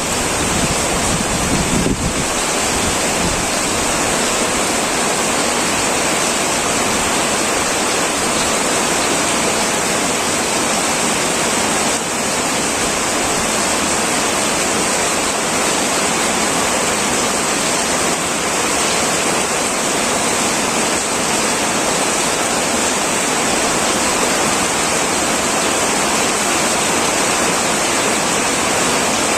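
Heavy rain pouring steadily onto a metal roof, a dense even hiss. A low rumble underneath dies away about two seconds in.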